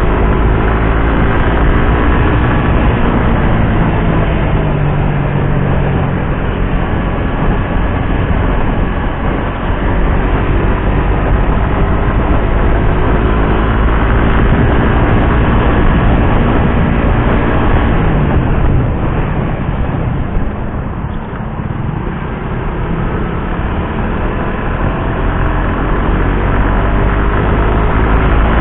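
Suzuki GSX-R150's single-cylinder engine under way, revving up and shifting through the gears with a strong low rumble underneath. About two-thirds through, the revs fall away and the sound drops briefly as the bike slows, then it picks up again.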